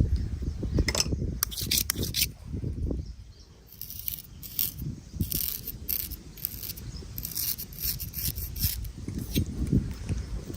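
Razor scraping over skin and stubble in quick short strokes, coming in bursts with brief pauses, over a steady low rumble.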